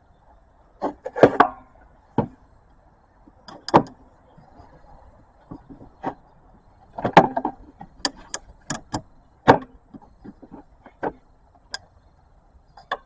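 Irregular clicks, taps and light knocks of hard parts being handled: a cartridge oil filter and its O-ring being fitted to the filter housing during an oil change. The loudest clatters come about a second in, around seven seconds and around nine and a half seconds.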